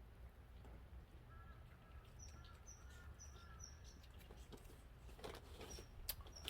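Faint bird calls: a run of short, evenly repeated high chirps starting about two seconds in and a few more near the end, over a low steady hum. A few light clicks and knocks near the end.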